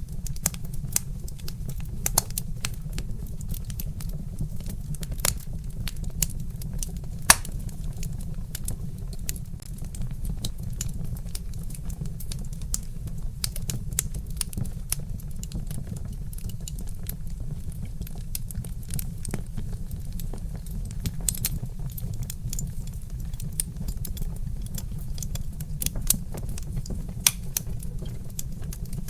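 Log fire crackling, with frequent irregular sharp pops and snaps over a steady low rumble; one louder pop stands out about seven seconds in.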